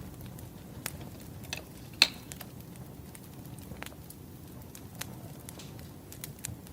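Firewood burning, with irregular crackles and pops over a low steady rush, and one sharp pop about two seconds in.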